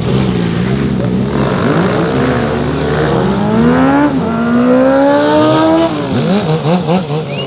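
Motorcycle engine accelerating hard, its pitch climbing, dropping at a gear change about four seconds in, climbing again, then falling as the throttle closes about six seconds in. Other motorcycle engines idle and blip underneath.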